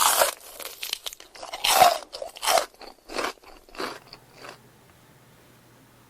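Close-miked crunching bites and chewing of food: about six loud crunches over the first four and a half seconds, then they stop.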